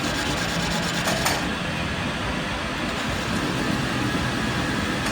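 Workshop machine running steadily with a low hum, with a couple of short knocks about a second in.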